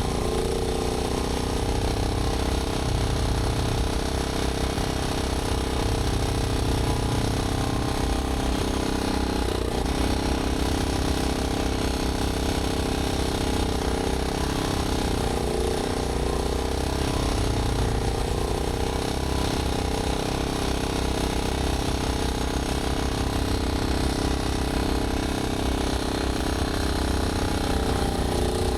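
Snowblowing machine's engine running steadily with a rapid low pulse, its pitch sagging briefly a few times as it takes load.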